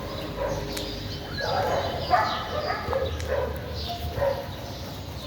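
A dog barking in short, repeated barks that come in loose runs.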